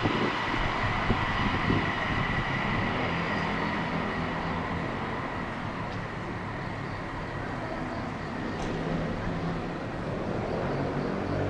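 A passing electric train dies away: the low rumble of its wheels and a steady high whine fade over the first few seconds. After that only a steady low hum and background noise remain.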